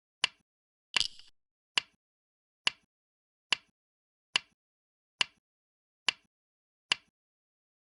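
Go stones clacking onto the board as moves are played, a sharp click about once a second, nine in all; the second click is longer and fuller than the rest.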